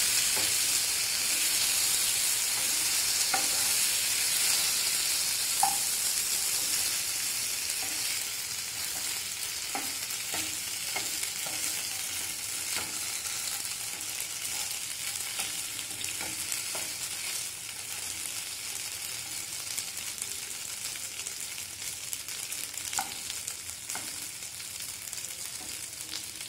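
Chana dal fara dumplings sizzling as they fry in oil in a nonstick pan, stirred with a wooden spatula that knocks lightly against the pan now and then. The sizzle is loudest at first and slowly dies down.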